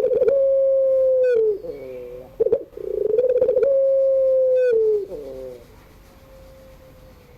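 Puter pelung (ringneck dove) cooing: two long, drawn-out coos, each a steady held note that breaks into a falling, wavering tail, followed by a much fainter long held note.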